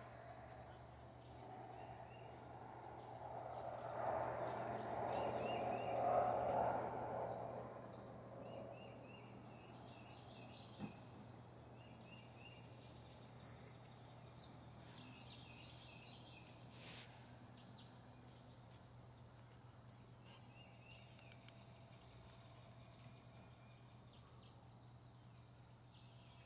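Small birds chirping in short repeated notes, over a steady low hum. A rush of noise swells and fades a few seconds in and is the loudest sound; a single click comes near the middle.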